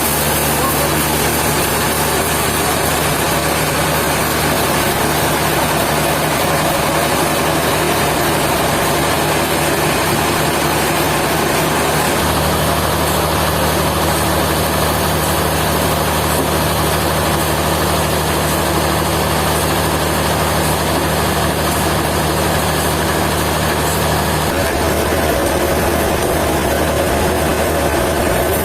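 Sawmill machinery running steadily under a low, engine-like hum that shifts about halfway through and again near the end.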